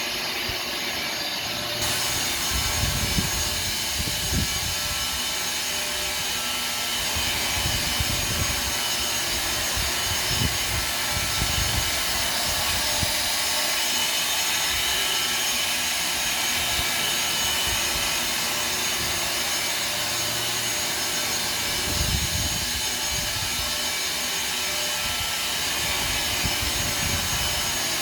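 5x10 CNC machine running a warm-up routine: a steady mechanical whine and hiss, with uneven low rumbles as it moves. The high hiss grows fuller about two seconds in.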